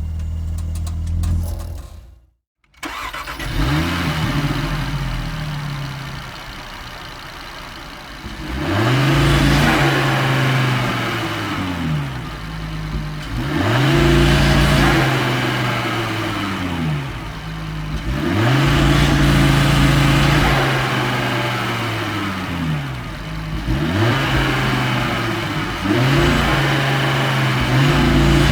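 Car engine running steadily, cut off by a brief silence about two seconds in, then a car engine revved again and again: the pitch climbs, holds for a few seconds and drops back toward idle, several times over.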